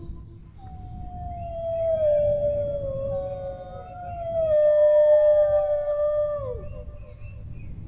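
Dogs howling: long drawn-out howls that slowly fall in pitch, a second howl joining partway through at a slightly different pitch, both dropping off together about three-quarters of the way in. A low rumble runs underneath.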